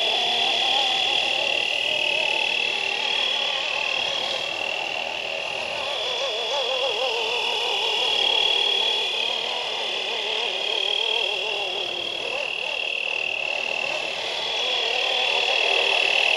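Fly Wing 450L electric RC helicopter in flight: a high motor and rotor whine that keeps shifting up and down in pitch as it manoeuvres.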